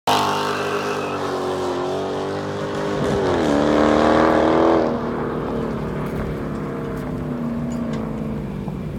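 Dodge Hemi V8 engine running, briefly revved for about two seconds near the middle, then settling back.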